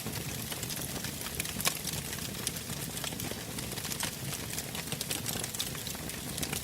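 Bonfire crackling: irregular sharp snaps and pops over a low, steady rumble of burning wood.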